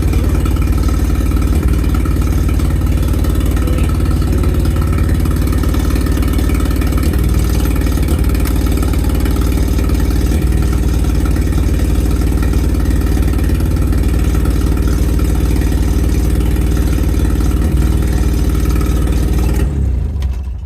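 Nissan 200SX S12's engine idling steadily on a freshly uploaded trial mass-airflow latency setting, then shut off abruptly near the end.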